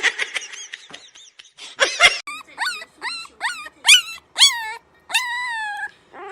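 A dog whining: a run of short, high-pitched whimpers, about two or three a second, then one longer whine near the end.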